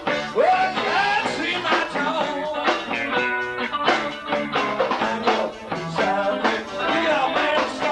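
A live rock trio of guitar, bass guitar and drums playing an instrumental passage, with a few sliding guitar notes about half a second in and a steady drum beat.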